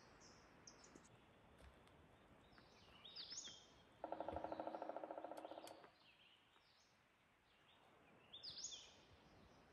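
Songbirds singing faintly in short, high phrases several times. About four seconds in there is a louder, low, rapidly pulsing trill lasting nearly two seconds.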